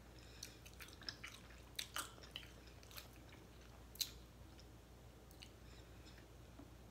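A person biting and chewing crispy oven-baked chicken wings: scattered short crunches and mouth clicks, most in the first few seconds, the sharpest about four seconds in.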